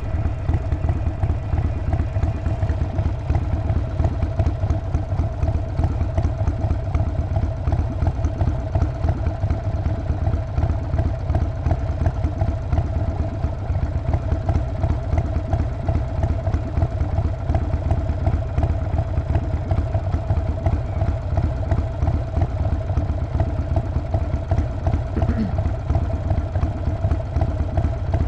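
Harley-Davidson Sportster 48's 1200 cc air-cooled V-twin running at a steady engine speed, its exhaust beat pulsing evenly with no revving.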